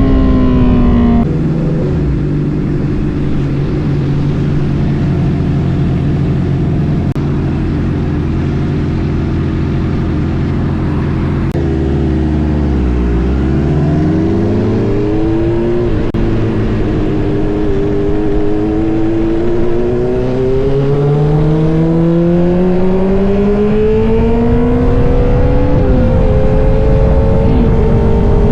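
Honda CBR650F's inline-four engine through a new Austin Racing mid-pipe exhaust, running steadily, then its pitch dips sharply and climbs back. After that it rises in two long pulls, each ended by a quick drop in pitch.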